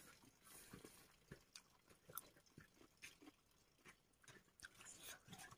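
Faint, irregular wet clicks and smacks of a person chewing a mouthful of rice and fish.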